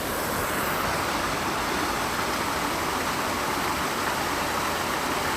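Steady rush of a waterfall's falling water, an even noise with no breaks, a little louder from the start on.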